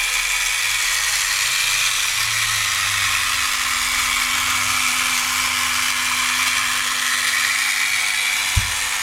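Gakken Otona no Kagaku desktop vacuum cleaner kit running: a steady high whir from its small motor, fan and gears, with one sharp knock near the end.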